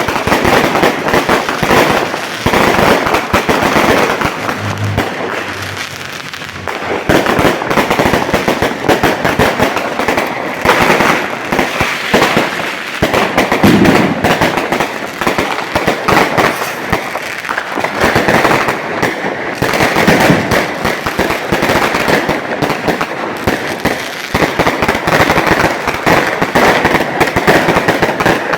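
Firecrackers going off in a long, rapid crackling run, dense pops with no break, easing slightly for a moment a few seconds in before picking up again.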